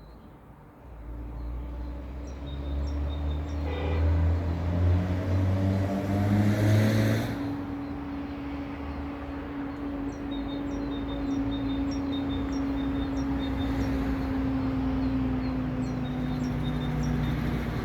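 A motor vehicle's engine running steadily at a constant pitch, growing louder a second in and loudest a few seconds in. A small bird chirps over it in a quick repeated series of short high notes.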